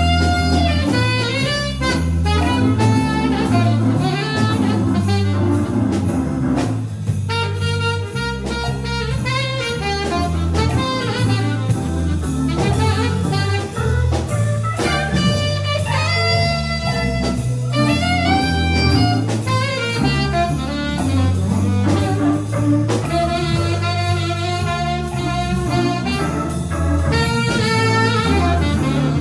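A live band playing an instrumental jazz tune: a melody line with runs of notes over a moving bass line and a steady drum-kit beat.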